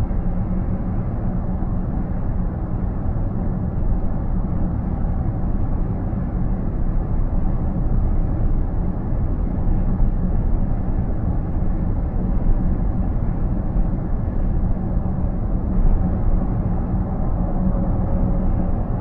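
Steady road and tyre noise inside a car cabin at highway speed, a constant low rumble. A faint steady tone comes in near the end.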